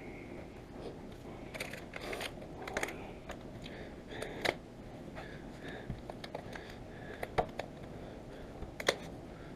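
Light handling noises: scattered clicks and taps with soft rubbing as a rubber windscreen seal is pushed back up around the glass, with a few sharper clicks later on.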